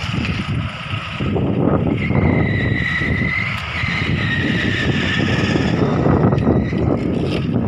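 Motor vehicle engine running with a steady low rumble, and a thin, high, steady whistle-like tone from about two seconds in that drifts slightly lower and fades near the end.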